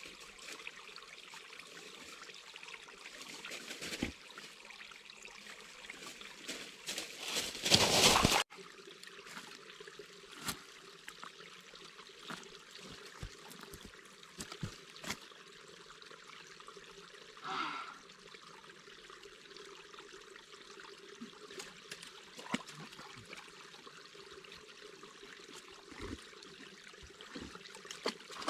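Water trickling steadily, with scattered small clicks and a louder rushing swell about eight seconds in that cuts off suddenly.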